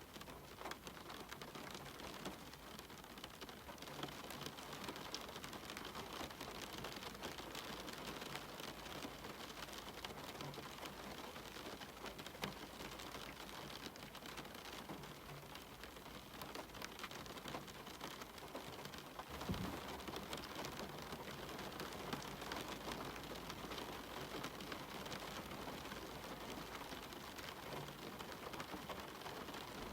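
Steady rain falling on a cabin window and the surrounding forest, with many individual drops tapping throughout. A single dull, low thump about two-thirds of the way through.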